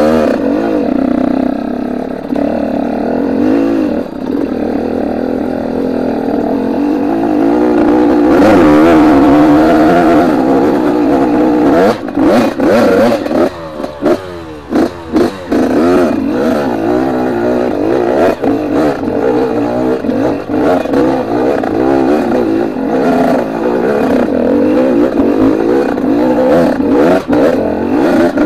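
Trail motorcycle engine running under changing throttle, its note rising and falling, with a choppy stretch near the middle where it cuts on and off several times.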